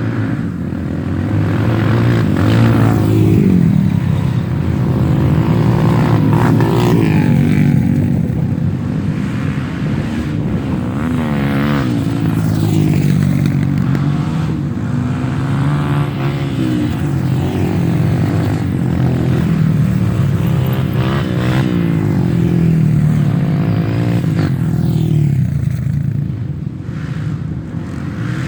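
Several off-road trail motorcycles running and revving, with overlapping engines whose pitch keeps rising and falling as they ride through.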